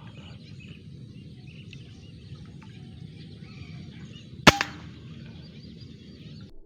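Faint bird chirps over a steady low outdoor background; about four and a half seconds in, a single sharp air-rifle shot.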